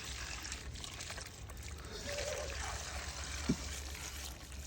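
Fuel being poured into the truck, a steady trickling pour, with a low steady hum beneath and one short knock about three and a half seconds in.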